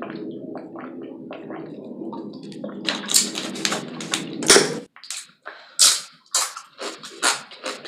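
Close-miked chewing of crunchy tortilla chips: repeated wet crunches every half second or so, growing louder from about three seconds in. A low steady hum underneath cuts off suddenly about five seconds in.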